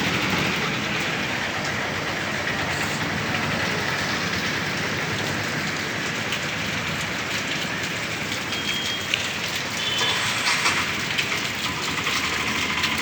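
Heavy rain pouring down with a steady, even hiss of rain and running water. A couple of short high beeps come about two-thirds of the way through.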